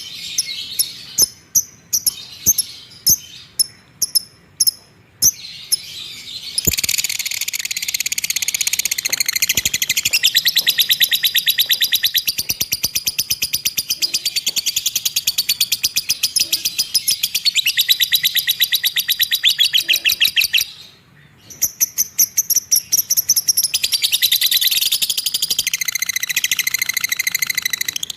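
Lovebird 'ngekek': a long, very fast rattling trill. It follows a run of separate sharp chirps about twice a second, starts about six seconds in, stops briefly about three-quarters of the way through, then starts again.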